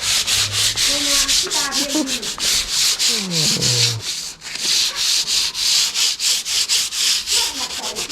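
Hand sanding of wood: quick, even back-and-forth rubbing strokes, about four a second, kept up without a break.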